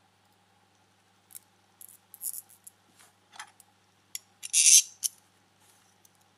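Small parts of a model car's exhaust being handled and fitted: scattered light clicks and brief scrapes, the loudest a half-second scrape about four and a half seconds in.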